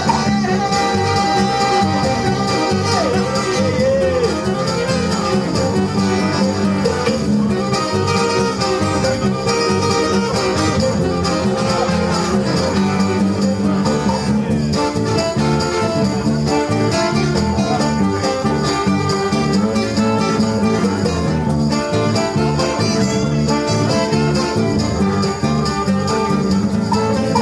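Live folk-rock band playing an instrumental break, with guitars and a fiddle over a steady beat.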